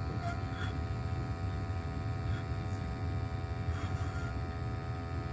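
Gas burner of a Crown hot water boiler running steadily just after lighting, a steady low rush with a faint hum over it. The burner came straight up to full fire on lighting, which the plumber takes as a sign that the wrong, non-step-opening gas valve is fitted.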